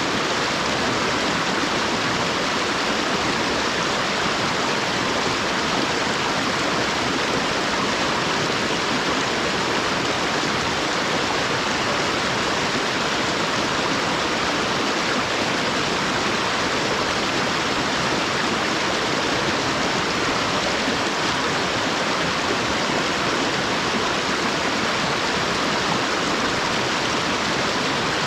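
Mountain river water rushing steadily over rocks: a constant, even flow noise with no changes.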